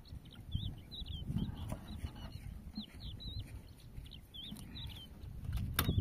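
Outdoor bird ambience: small birds chirping in short, quick notes over and over, over a low, uneven rumble, with a sharp click near the end.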